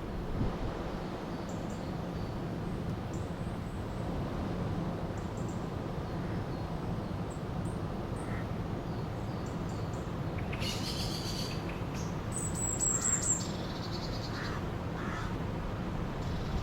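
River water flowing steadily, with small birds chirping over it and a louder burst of calls, including a high whistle, about ten to thirteen seconds in.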